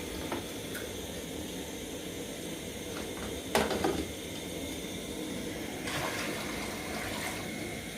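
Water being poured into a cooking pot for ugali: a steady pour, with a brief louder sound about halfway through.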